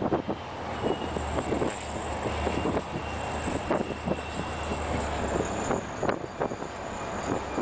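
Train running, with a steady low drone under constant irregular clattering and knocking. The drone fades about five and a half seconds in, and the clatter goes on.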